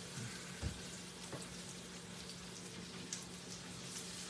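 Breaded chicken livers frying in shallow oil in a skillet: a steady, even sizzle. A soft knock sounds once, under a second in.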